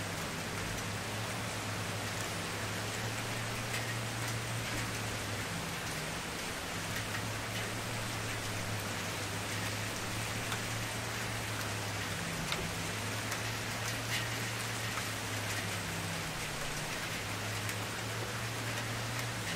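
Campfire burning: a steady hiss of flames with scattered small crackles and pops, over a low hum that drops out a few times.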